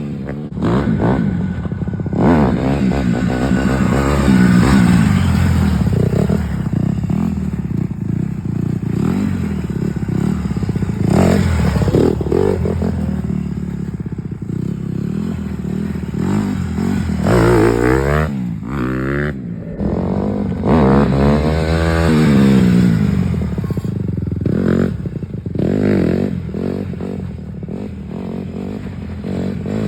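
Honda CRF150 dirt bike's single-cylinder four-stroke engine revving, its pitch rising and falling again and again.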